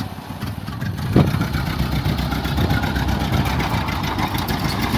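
1929 Ford Model A's four-cylinder flathead engine running under load, labouring to push the car through soft sand, with a single thump about a second in.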